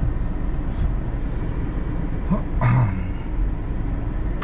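Inside a moving car: a steady low rumble of engine and tyre noise, with a short voice-like sound about two and a half seconds in.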